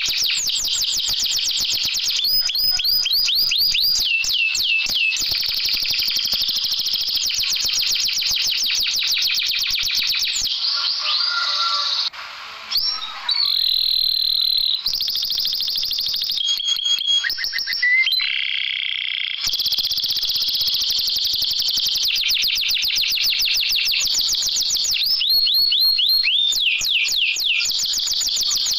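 Domestic canary singing a long, fast song of high rapid trills and quickly repeated rolling notes. Its passages change abruptly several times, with a short dip about twelve seconds in: a canary song recording of the kind played to prompt a reluctant canary to sing.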